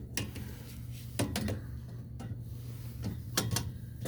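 A few light clicks and knocks of metal parts being handled as a tube is worked loose from a gas boiler's burner assembly, over a steady low hum.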